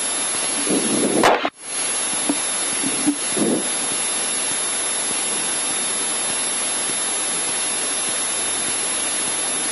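Steady rushing hiss of Cessna 152 cockpit noise heard through the headset intercom, with the engine running. It cuts out sharply for a moment about a second and a half in, and faint muffled voices sit underneath.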